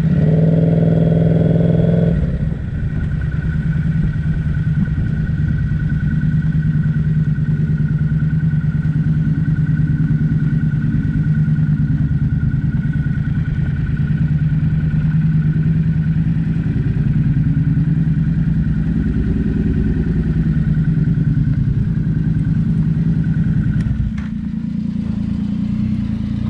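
Motorcycle engine running steadily at cruising speed, with wind and road noise; the engine note eases off near the end.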